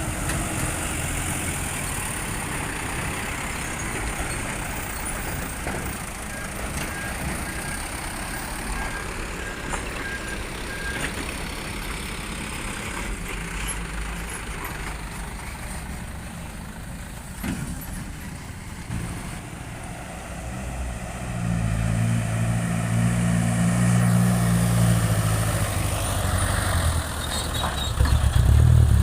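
Diesel truck engines running. One truck pulls harder and louder from about two-thirds of the way in and again near the end. A run of short electronic beeps sounds for several seconds in the first half.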